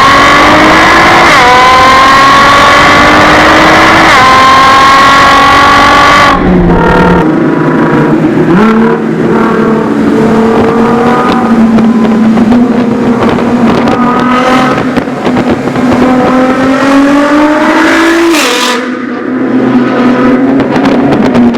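Nissan GT-R with an Armytrix aftermarket exhaust accelerating hard through several upshifts, the engine note climbing and dropping back at each shift, then lifting off sharply about six seconds in. It then runs at a steadier, lower pitch, climbs once more and lifts off again near the end.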